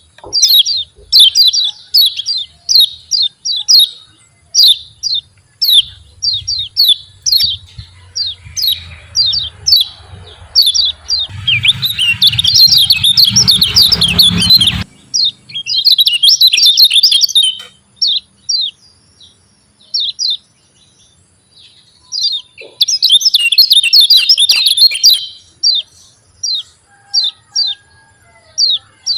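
Kecial kuning (Lombok white-eye) singing its 'ciak ciak' call: short, sharp, high chirps repeated a few times a second. Twice the chirps run into a dense burst of rapid chattering, at about 12 seconds in and again at about 23 seconds in.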